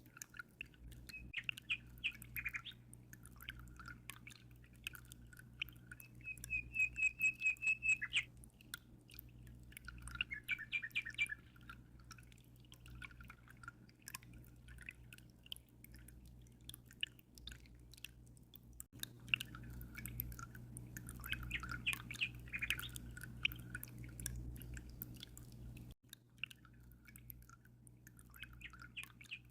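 Small songbirds chirping and twittering, with a quick run of repeated trilled notes about seven seconds in, over a steady low hum and fine dripping of aquarium water.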